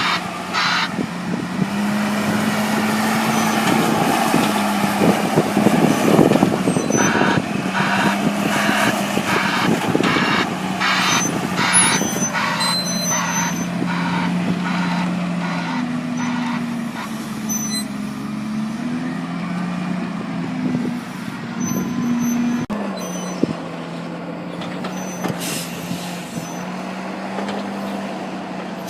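Heavy silage machinery's diesel engine running, its revs rising and falling, with a reversing alarm beeping about twice a second at the start and again for several seconds from about seven seconds in.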